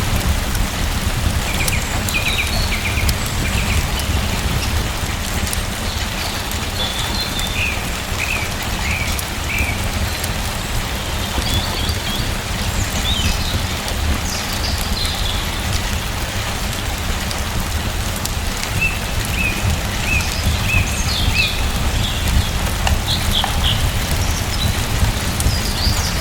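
Steady rain pattering, with a low rumble under it. Small birds chirp in short runs of quick notes at several points.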